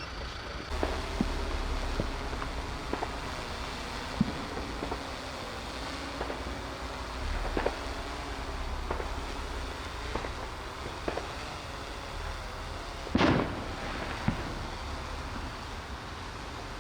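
Fireworks going off: a dozen or so scattered sharp bangs and pops, with one bigger, longer bang about three-quarters of the way through. A steady low rumble and a faint wavering hum run underneath.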